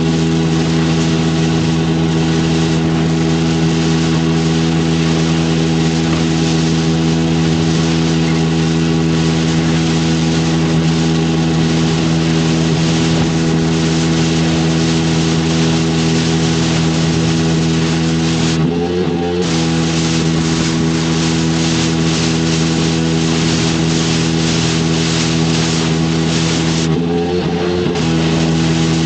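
Pressure washer engine running steadily under the hiss of the high-pressure water spray. The spray cuts out twice for about a second, about two-thirds of the way in and again near the end, and the engine note wavers each time.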